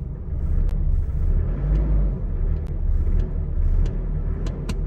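1.9 Ddi diesel pickup engine idling as it warms up after a morning start: a steady low rumble.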